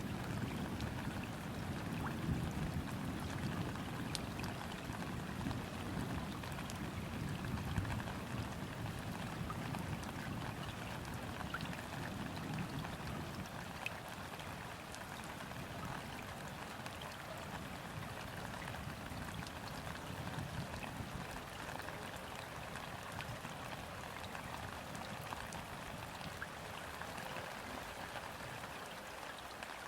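Steady gentle rain falling on river water, a dense patter of drops, with a low rumble of distant thunder that fades away about halfway through.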